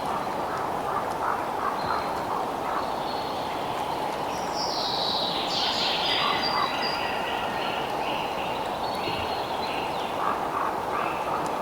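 Bird calls over a steady outdoor ambience with a low, even hiss. About five seconds in comes a call sweeping downward, followed by a run of short, evenly repeated notes.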